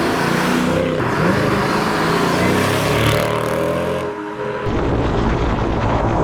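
Mercedes-Benz S55 AMG's supercharged V8 exhaust running and revving, its pitch rising and falling. The sound drops briefly about four seconds in, then picks up again.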